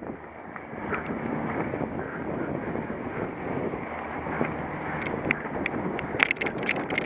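Wind buffeting the microphone of a camera riding along on a cyclocross bike during a race, a steady rushing noise, with a run of sharp clicks and rattles from about five seconds in.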